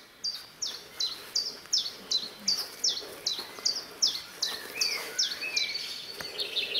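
A songbird repeating a short, high, downward-slurred note over and over, about three times a second. Near the end a second fast, high trill joins in.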